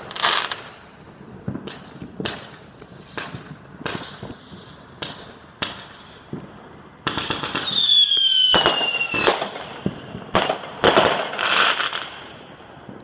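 Fireworks going off: scattered bangs and cracks, then a whistling firework with a falling whistle about eight seconds in, followed by a cluster of louder bangs.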